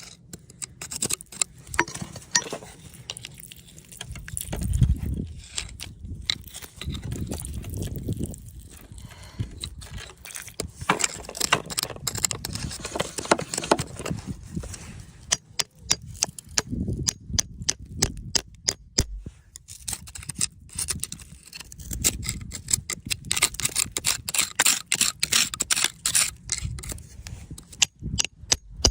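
Irregular sharp clicks and taps with bouts of scraping, as of hand tools chipping and scraping at rock to free crystals.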